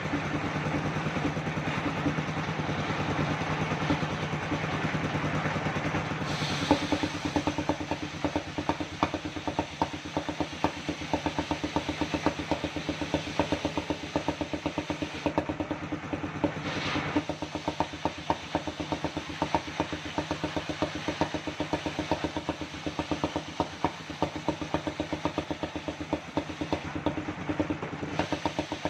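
Circular sawmill machine running and sawing through a kenanga log, with a rapid, steady knocking from its drive. About six seconds in, the hissing cutting noise eases and the knocking comes to the front.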